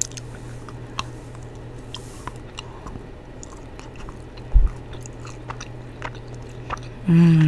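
Close-miked biting and chewing of a solid chocolate spoon: small crunchy clicks and mouth sounds scattered throughout, over a steady low hum from a microphone with its gain turned up high. A single low thump about four and a half seconds in, and a short hummed "mm" near the end.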